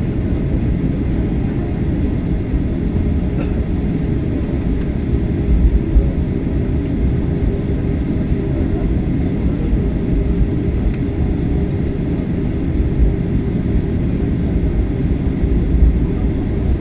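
Steady low rumble of a Batik Air jet's engines and airflow heard inside the passenger cabin as the plane taxis after landing.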